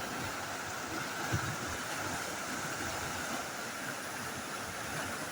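Snowmelt-swollen river in flood, rushing steadily under a bridge at its highest runoff level.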